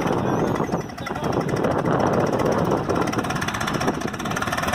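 Swaraj 744 FE tractor's three-cylinder diesel engine running hard and steadily under heavy load, straining to pull a loaded dumper trailer that is stuck.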